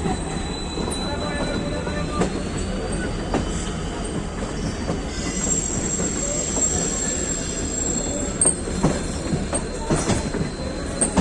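Passenger train running on the track: a steady rumble of wheels and coaches, with scattered clicks over rail joints and a thin, steady high-pitched wheel squeal.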